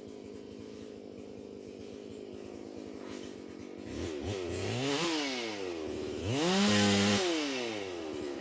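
Holzfforma G444 chainsaw, a two-stroke Stihl MS 440 clone, idling steadily, then revved twice about four and six seconds in, the second rev held briefly at high speed before dropping back to idle.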